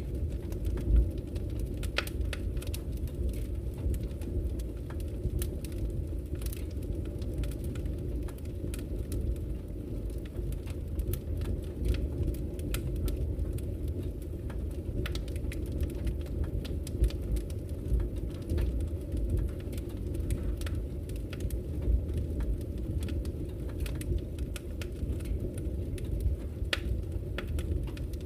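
Wood fire burning in a fireplace: a steady low rumble of flames with irregular sharp crackles and pops from the burning logs, one louder pop about a second in.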